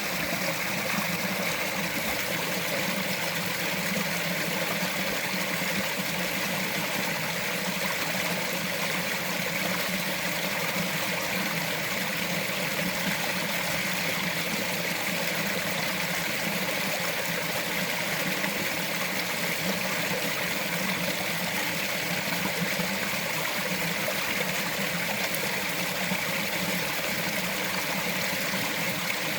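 Small forest stream flowing and trickling over rocks, a steady, unbroken rush of water.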